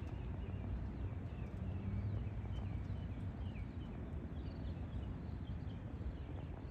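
Small birds chirping in short, repeated notes over a steady low rumble of open-air background noise.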